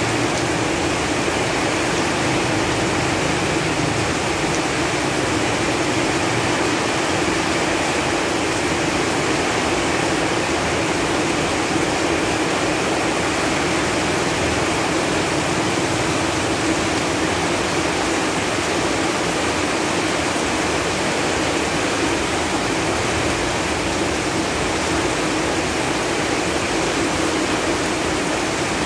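Steady rain falling on leaves, an even, unbroken patter of drops.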